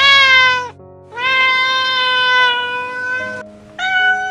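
A cat meowing three times: a short meow, then a long, drawn-out one of about two seconds, then another short meow near the end, over soft background music.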